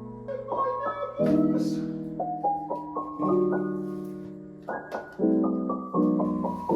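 Background piano music: soft chords and single notes struck every second or so and left to ring and fade.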